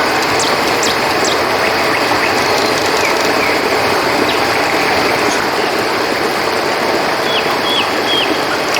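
River water flowing in a steady, even rush, with scattered short high chirps over it, three quick ones near the end.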